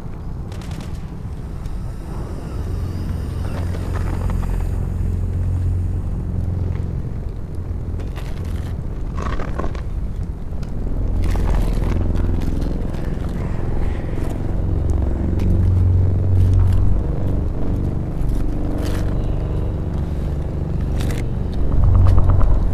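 Layered sound-effects ambience: a deep rumble that swells and fades several times, loudest near the end, with scattered scrapes and knocks.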